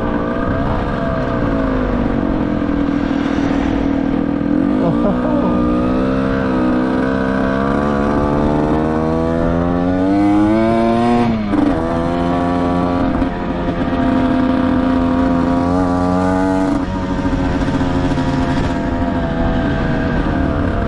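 Derbi Senda motorcycle engine running while ridden on the road. Its pitch climbs slowly for several seconds, drops suddenly about halfway through as it changes gear, then holds steady before falling away near the end. The engine is short of power, which the rider puts down to a badly tuned carburettor.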